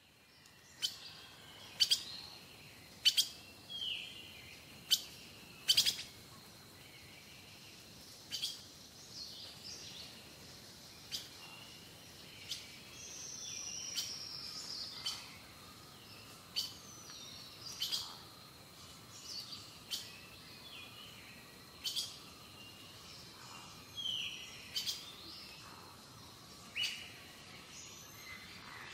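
Small birds chirping and calling: short sharp notes and brief chirps, one every second or two, over a faint steady high whine.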